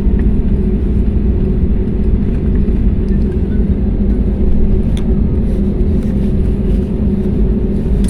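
Steady drone of an airliner in flight heard inside the cabin: engine and airflow noise with a constant low hum, and one faint click about five seconds in.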